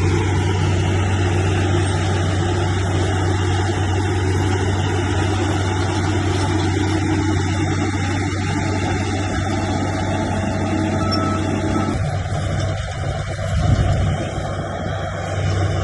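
Bulldozer's heavy diesel engine running steadily under work. Its note changes about twelve seconds in, with a short louder surge a second or so later.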